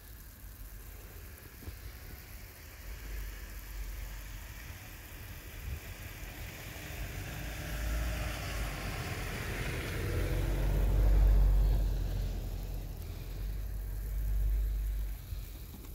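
A car driving past, its engine rumble and tyre noise growing louder to a peak about two-thirds of the way through, then fading.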